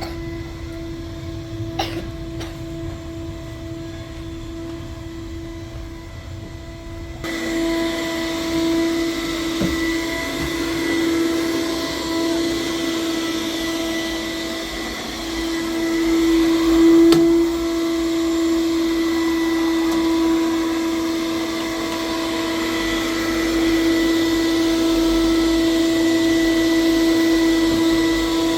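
Household vacuum cleaner running steadily with a constant hum, getting louder and hissier about seven seconds in.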